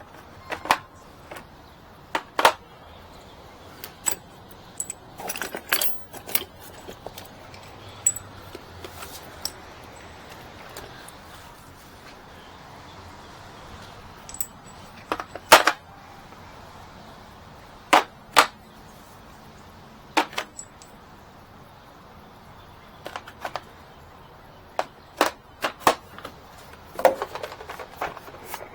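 Irregular sharp metallic clicks, clinks and knocks, a few with a brief high ring: hand tools and hinge hardware handled while a side-by-side refrigerator's doors are taken off or refitted. The hardest knocks come about two and a half seconds in, around fifteen and a half seconds in, and twice around eighteen seconds.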